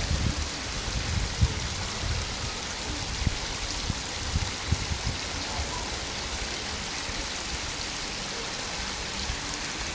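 Spring water flowing steadily from its source, a continuous rushing with low gurgles and plops through the first half that settle after about five seconds.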